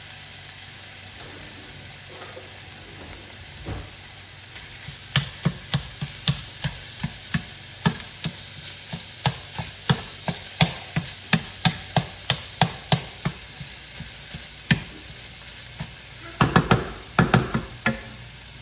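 Ground turkey sizzling in a frying pan with a steady hiss. From about five seconds in, a utensil knocks against the pan about twice a second as the meat is stirred and broken up, with a quick run of louder clatters near the end.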